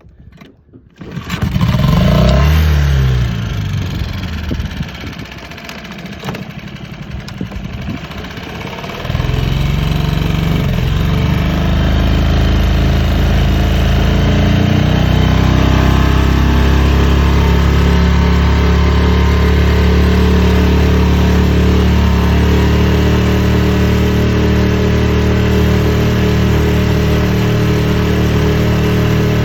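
Mercury 6 hp four-stroke outboard motor catching about a second in, with a quick rise and fall in revs. It then runs unevenly at a lower level, and about nine seconds in it is throttled up to a steady, even run.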